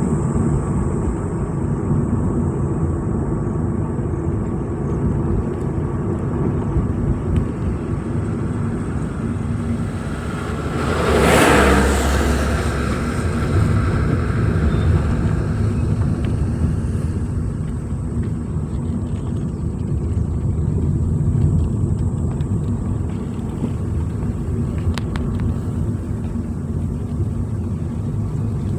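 A vehicle driving along a road: steady engine and road noise, with a brief louder rush about eleven seconds in.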